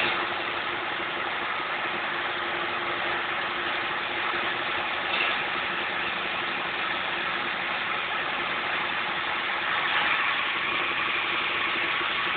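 A 2000cc engine running steadily on biogas, driving a 15 kW generator, with an even hum and a constant low tone.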